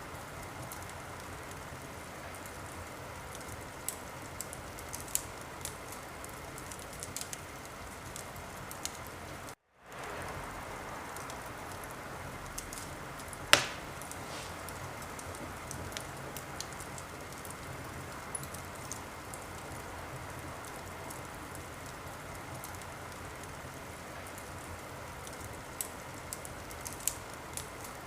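Wood fire crackling in a fireplace: a steady hiss with scattered sharp pops and one loud pop about halfway through. The sound cuts out for a moment about a third of the way in.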